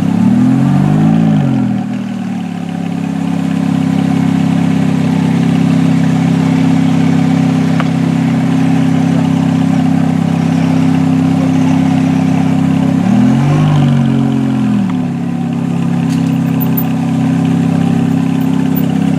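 Ferrari F430's 4.3-litre V8 idling steadily, blipped twice: a short rev rising and falling about a second in, and another about two-thirds through.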